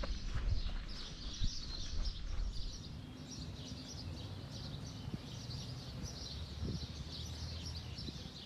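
Many small birds chirping and singing in a forest, with a low rumble underneath.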